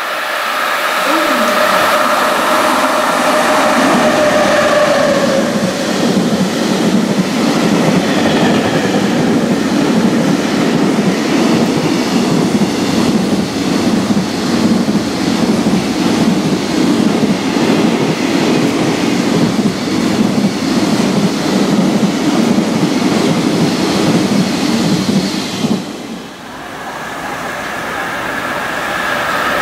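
A long JR Freight container train passes through the station at speed. Its wagons give a loud, steady rumble with rapid clickety-clack over the rail joints, which cuts off suddenly at the tail, about 26 seconds in. Near the end another freight train approaches and its sound rises.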